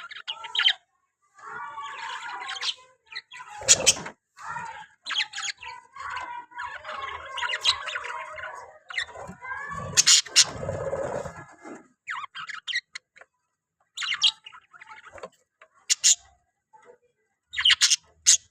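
Pet budgerigar chattering and warbling in quick runs broken by short pauses, with sharp high chirps through it. The loudest chirps come about 4 and 10 seconds in.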